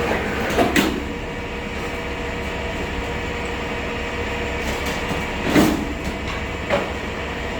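Steady low mechanical rumble with a few short knocks, the loudest about five and a half seconds in.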